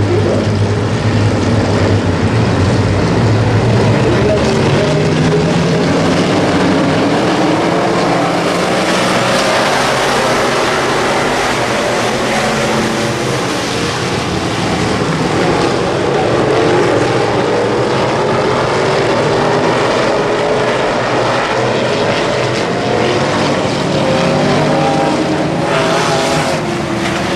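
WISSOTA Midwest Modified race car V8 engines running on track, their pitch rising and falling as the cars accelerate and lift, several engines overlapping.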